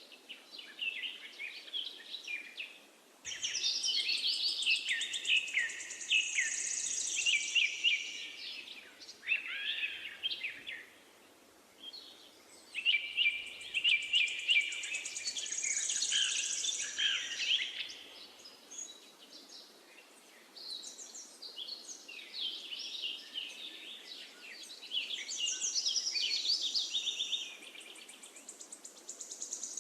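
Songbirds singing in bouts of several seconds, with rapid warbling phrases and trills and pauses between bouts, over a faint steady outdoor hiss.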